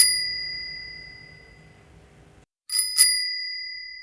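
Bicycle bell rung twice: a quick double ding that rings on and fades, then another quick double ding about three seconds in.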